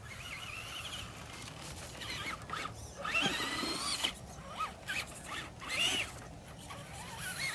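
Whine of a radio-controlled car's electric motor, rising and falling in pitch with the throttle, with a sharp climb about three seconds in that stops abruptly a second later.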